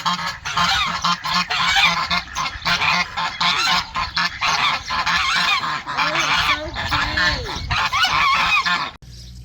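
Geese honking, a dense run of short overlapping calls that cuts off abruptly near the end.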